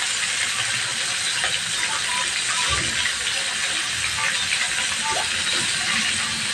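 Chicken pieces deep-frying in hot oil in a wok: a steady sizzle with fine crackles and pops.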